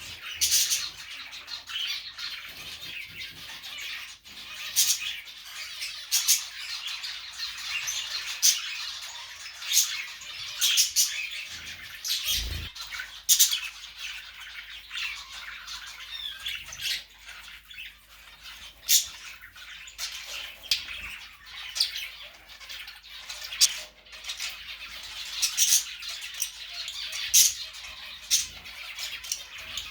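A pet bird calling in many short, sharp squawks and chirps, a few every second or two, with one low thump about twelve seconds in.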